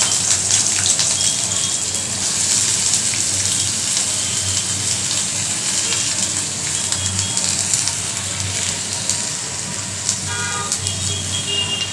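Potato sticks sizzling in hot mustard oil in a kadai, a steady frying hiss from potatoes just dropped into the oil.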